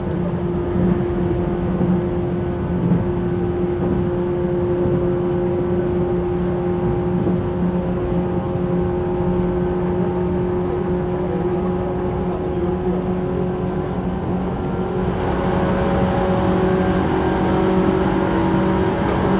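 JR 185 series electric train running, heard from inside the passenger car: a steady hum from the motors and gears over rushing running noise. The rushing grows louder about three quarters of the way through.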